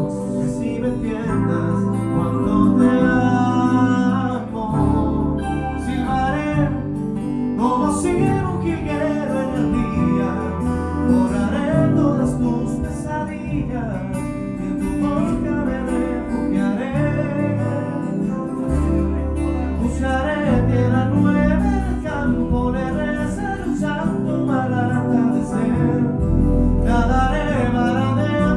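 A song played by a band: guitar over a bass line, with singing, steady throughout.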